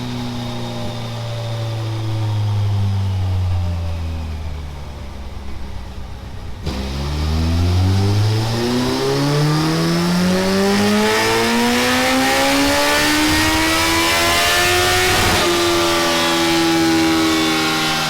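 Kawasaki ZZR1400's inline-four running through a Delkevic X-Oval titanium exhaust on a dyno. The revs wind down for about six seconds, then a hard pull sends the pitch rising steadily for about eight seconds before the throttle eases off and the engine settles near the end.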